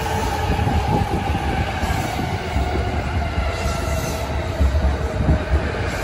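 JR East E233-7000 series electric commuter train moving past along the platform: a steady rumble of wheels on rail, with heavier low thuds from the wheels passing over rail joints in the second half.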